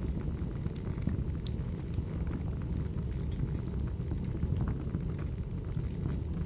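Firewood burning: a steady low rumble with irregular sharp crackles and pops scattered throughout.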